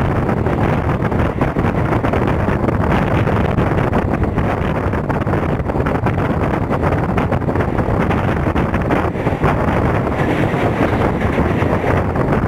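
Steady running noise of a Mumbai suburban electric train travelling at speed, wheels rumbling on the rails, with wind buffeting the microphone at the open doorway.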